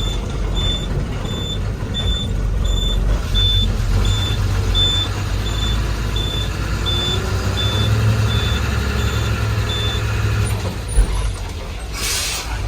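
Heavy earthmoving machine's diesel engine running, with its warning beeper sounding about three times a second until near the end, when it stops. A short hiss follows near the end.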